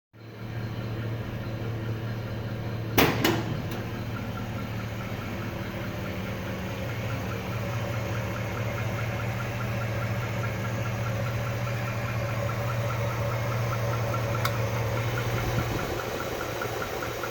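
An engine idling steadily with a regular, fast ticking running over the hum, the weird noise that is being recorded. Two sharp clicks come about three seconds in.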